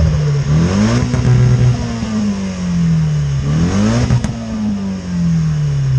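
Car engine revving up and easing off twice, its pitch climbing and then slowly sinking each time, with a short sharp click soon after the second rise.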